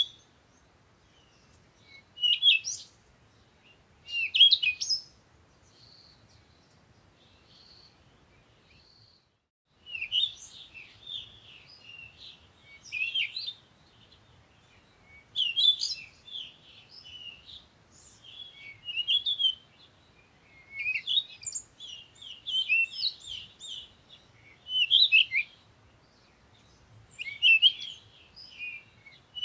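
Several small songbirds chirping and twittering in short, high calls. The calls come sparsely at first with a few soft single whistled notes, then stop in a brief dead silence about nine seconds in. After that the chirping is busier and more overlapping.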